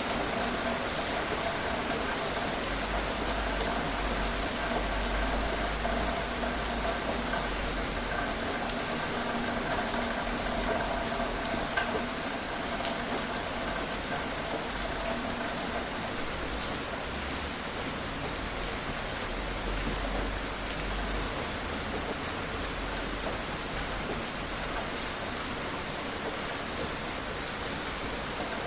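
Steady gentle rain falling and pattering on surfaces, with fine individual drips. A faint steady hum lies underneath and fades out about halfway through.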